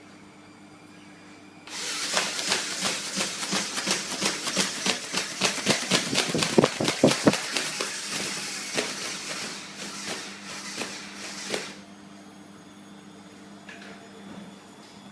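Magnet-driven ornithopter's flapping-wing mechanism running in a rapid clatter of clicks for about ten seconds. It starts about two seconds in and stops abruptly near the end.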